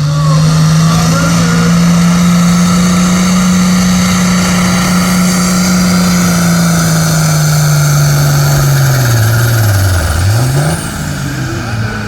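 Tractor engine running at full throttle pulling a weighted sled, a loud steady drone whose pitch sags from about seven seconds in as it labours under the load, then the engine is throttled back near the end.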